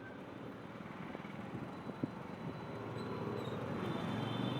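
Motorcycle running along the road, engine and road noise growing steadily louder.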